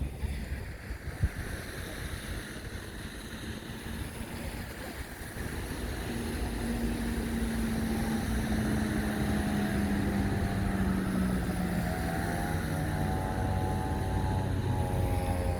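A vehicle's engine hums steadily, its pitch sinking slowly, over a constant hiss of storm rain and traffic. Wind thumps on the microphone in the first second or so.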